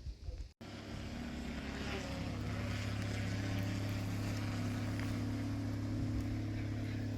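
Ferrari 12Cilindri Spider's 6.5-litre F140 V12 running at a steady, low engine speed, coming in suddenly about half a second in and holding one even low note without revving.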